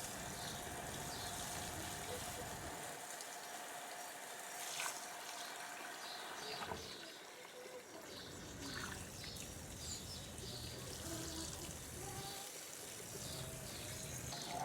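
Water trickling steadily, with faint short high chirps over it.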